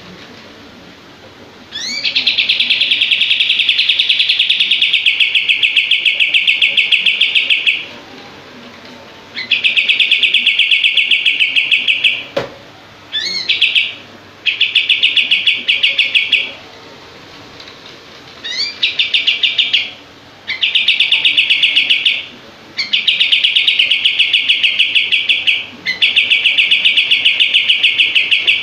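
Kapas tembak songbird singing its rapid 'shooting' song: bouts of very fast, tightly packed repeated notes, each opening with a quick upward sweep, lasting from about one to six seconds with short pauses between them.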